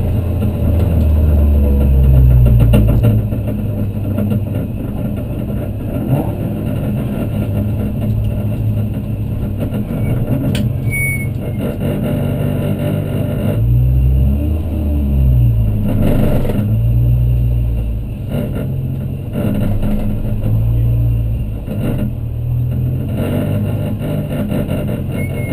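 Supercharged 1.6-litre Toyota 4A-GZE four-cylinder engine of a Corolla race car, heard from inside the stripped cabin, running at low revs as the car rolls slowly. The revs rise and fall several times in the second half.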